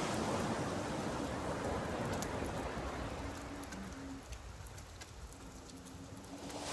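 Steady rain with scattered drop ticks over sea surf. The surf is loud at first, ebbs away about four seconds in, and builds again near the end.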